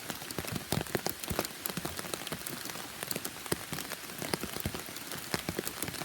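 Heavy rain falling, with a dense, irregular stream of individual drops striking close to the microphone.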